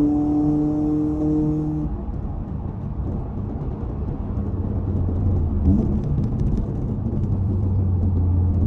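Toyota 86's flat-four engine holding a steady note, which drops away about two seconds in. A low rumble and road noise follow, and a deep drone builds toward the end.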